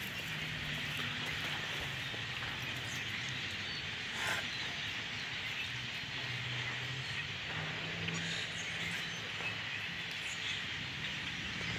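Massed calling of a huge flock of thousands of blackbirds, a dense, steady chatter of overlapping calls. A faint low hum sits underneath.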